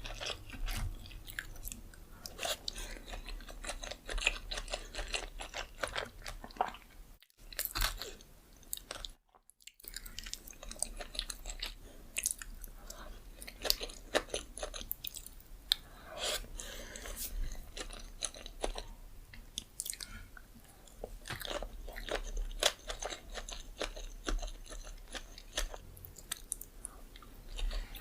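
Close-miked chewing of sushi: wet mouth clicks, smacks and soft crunches in an irregular run, broken by two short silent gaps about seven and nine seconds in.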